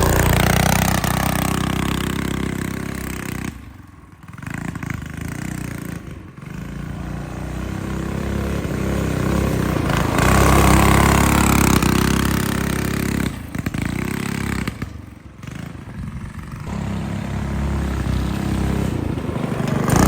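Small engine of a homebuilt three-wheeler running and revving as it rides through snow. It grows louder and fades as the machine comes near and moves away, dropping off twice.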